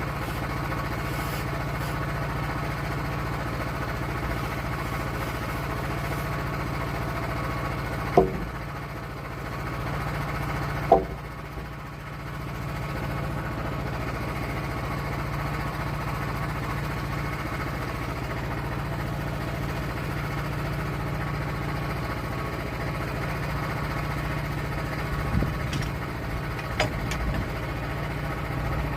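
Sawmill's engine running steadily, with two sharp knocks about eight and eleven seconds in.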